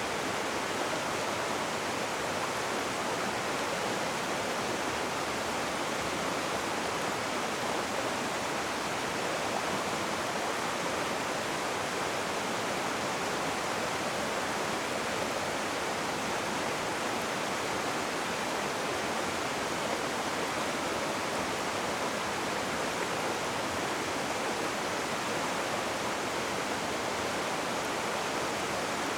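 Rushing river water: a steady, even roar of flowing water with no breaks.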